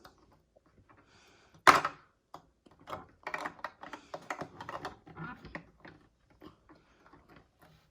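Irregular clicks and taps of hard plastic as toy figures and parts are handled and pressed into a plastic toy airplane, with one sharper knock about two seconds in.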